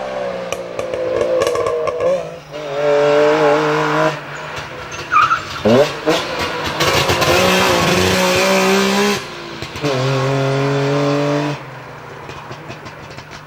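Wartburg 311 rally cars' three-cylinder two-stroke engines revving hard as they are driven past, the engine note dropping and climbing again several times. The sound gets much quieter for the last couple of seconds as a car pulls away.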